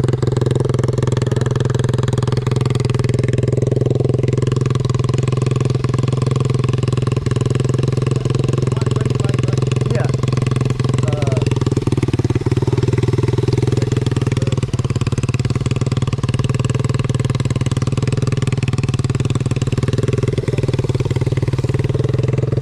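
An engine running steadily at an even speed, making a constant low drone.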